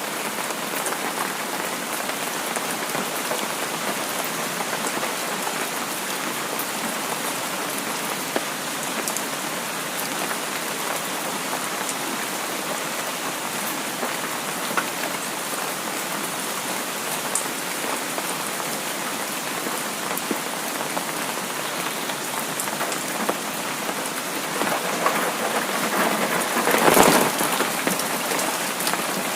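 Steady rain falling, a dense even patter with scattered ticks of single drops. The rain swells louder for a few seconds near the end.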